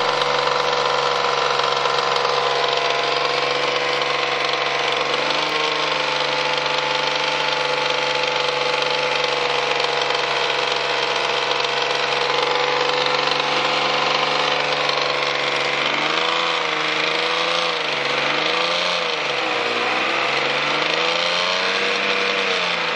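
Naturally aspirated Nissan 300ZX V6 engine held at raised revs with a bottom-end knock, then revved up and down repeatedly over the last several seconds. The knock comes in from about 2000 rpm, and the owner suspects a failing big-end bearing on cylinder number 6.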